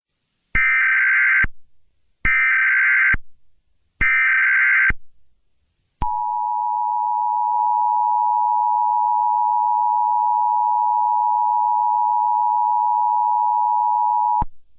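Emergency Alert System tones: three short bursts of SAME header data tones about a second apart, then the steady two-tone attention signal, held for about eight seconds before it cuts off.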